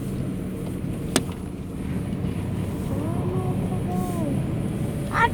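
Steady low road and engine rumble inside a moving car, with a sharp click about a second in.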